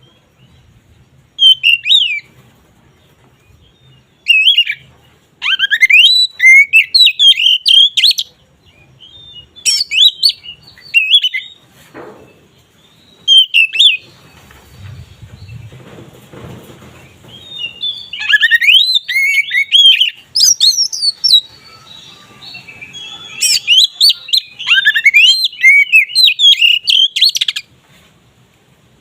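Oriental magpie-robin (kacer) in full, open song ('ngeplong'): loud bouts of rich whistled phrases with rising and falling sweeps and quick chatter, broken by brief pauses.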